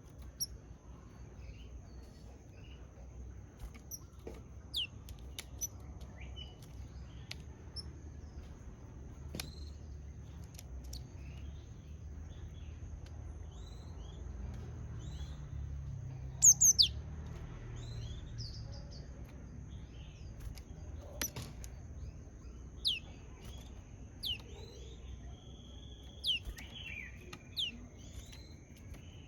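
Japanese tit giving short, sharp high chirps and call notes at irregular intervals, loudest as a quick pair about sixteen seconds in. A faint steady high tone and a low rumble run underneath.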